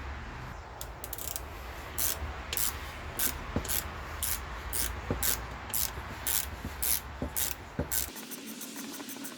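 Repeated back-and-forth rubbing or scraping strokes on a lawn tractor transmission part, about two a second, stopping about eight seconds in.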